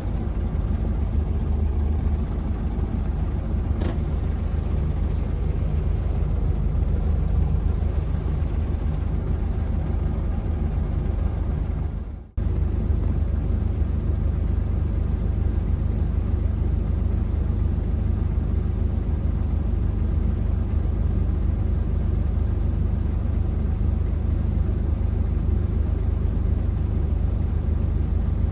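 Scania L94UB bus's DC9 five-cylinder diesel engine running steadily with a low rumble, heard from inside the bus. The sound cuts out for a moment about twelve seconds in.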